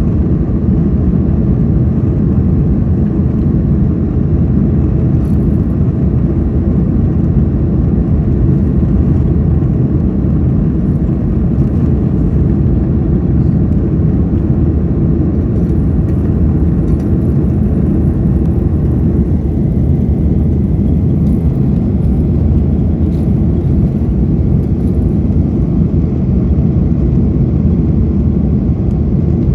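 Steady low rumble of a jet airliner's engines and rushing air during its takeoff run or climb, holding an even level with no breaks.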